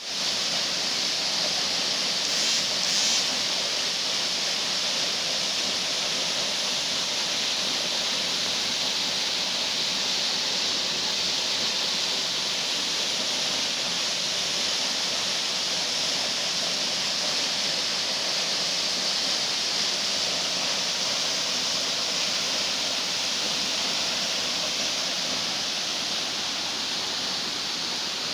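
Waterfall: a steady rush of falling water, with no change through the clip.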